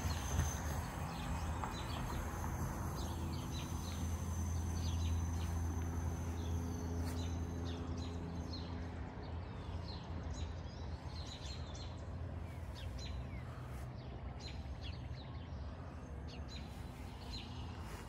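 Songbirds chirping, with many short high chirps scattered throughout and growing busier in the second half, over a low steady rumble that is strongest in the first half and then fades.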